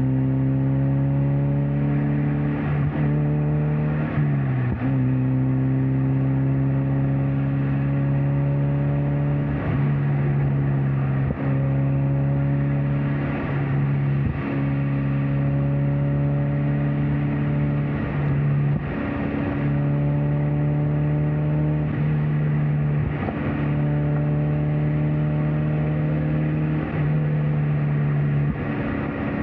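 Mazda Miata NC four-cylinder engine and exhaust droning steadily at cruise, its pitch easing up and down with a brief dip about four seconds in, over tyre and road noise with occasional short thumps from the road surface.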